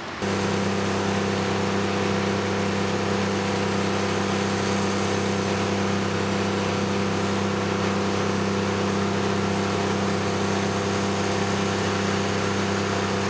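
An engine or motor running at a constant speed, a steady low hum that cuts in suddenly just after the start.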